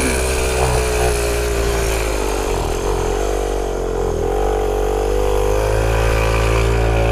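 Pocket bike's small single-cylinder engine running steadily as it rides along. Its pitch sags and wavers briefly about three seconds in, then climbs back.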